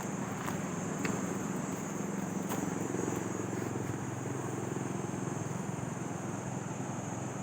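An engine running steadily with a low, even drone, with a constant high hiss above it and a few faint clicks in the first seconds.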